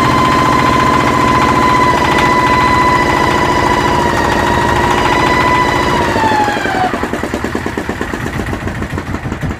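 Yanmar SB12 single-cylinder diesel running with a fast knocking beat and a steady high whine over it. About six seconds in, the whine falls in pitch and dies away, and the engine sound drops to a quieter level.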